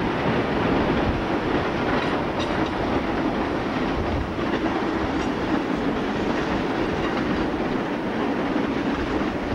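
Electric multiple unit passing close by at low speed, its wheels running over the rail joints and pointwork with a steady, even noise.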